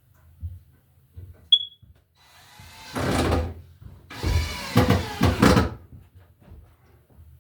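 A wooden running board scraping and knocking against the floor joists as it is pushed into place. There is a short high squeak about a second and a half in, then two longer scrapes.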